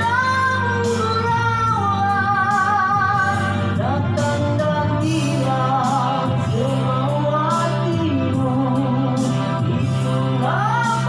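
A rock vocalist holding long high notes with vibrato over band accompaniment, sliding up into a new held note near the end.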